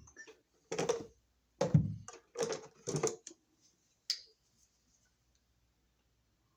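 Hand tools and wires being worked: a run of short clicking, scraping noises as stranded electrical wires are handled and trimmed to length, then one sharp click about four seconds in.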